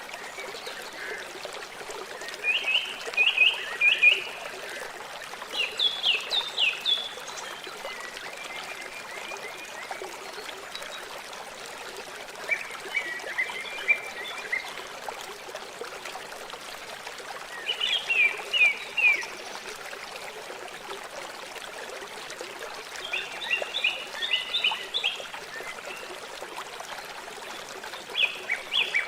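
River water flowing steadily. A bird sings a short phrase of quick, high notes about every five or six seconds, louder than the water.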